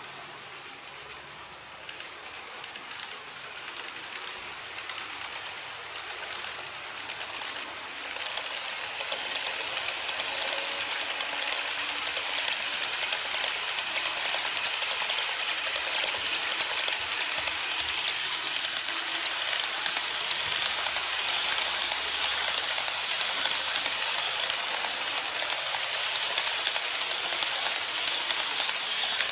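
Model train running on its track, a dense rapid clicking and whirring of wheels on the rails that grows louder about eight seconds in, then stays steady.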